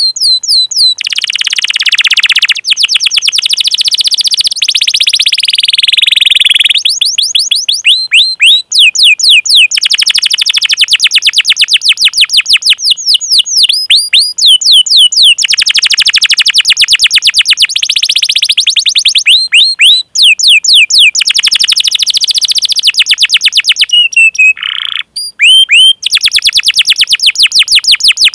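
Domestic canary singing a long, fast rolling song. Phrases of rapidly repeated, high-pitched downward-sliding chirps (cuit cuit) run into one another, broken by a few brief pauses.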